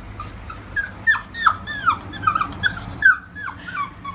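A dog whimpering: a string of short, high cries, each falling in pitch, several a second.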